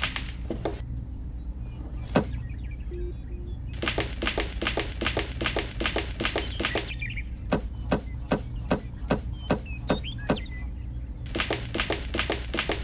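Runs of rapid light taps, several a second, and separate sharp clicks, over a steady low hum.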